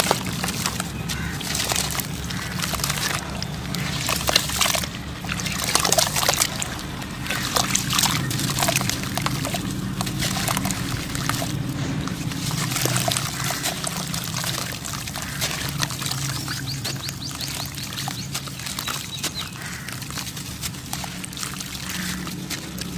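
Crumbly sand-cement or dirt clumps breaking apart and pouring down as a dense, continuous crackle of fine grains, busiest in the first half. A steady low hum runs underneath.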